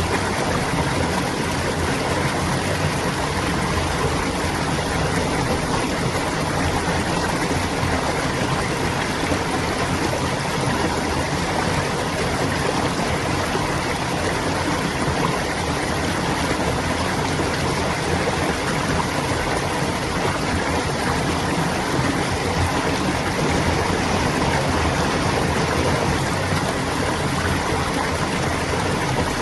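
A stream of clear water flowing and babbling, an unbroken, steady rush.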